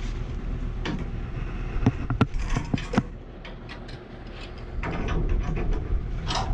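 Gas pipe fittings being handled and fitted, giving several sharp metal knocks and clicks in the first three seconds, over a steady low hum.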